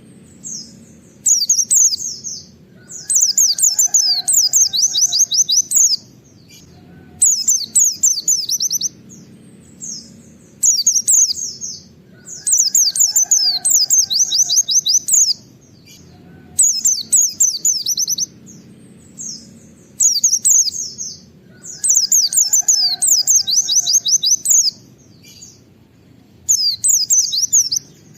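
A pleci (white-eye) sings in loud, fast bursts of high, down-slurred 'wit wit' notes, the rapid 'nembak' shooting song. The phrases last one to three seconds each, with short pauses between them, and the whole sequence repeats about every ten seconds. A faint low background hum runs underneath.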